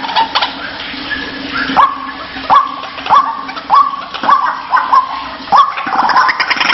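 White-breasted waterhen (ruak-ruak) calling: a run of about seven short, harsh 'kruak' notes, roughly two every second. Denser overlapping calling can be heard at the start and again near the end.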